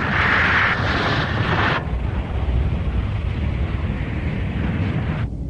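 Cartoon explosion sound effect of space mines going off: a loud rushing blast that cuts off a little under two seconds in, leaving a lower rumble.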